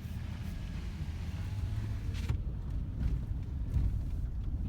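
A vehicle driving slowly on an unpaved easement road, heard from inside the cab: a steady low rumble of engine and tyres with a short knock or rattle a little past halfway.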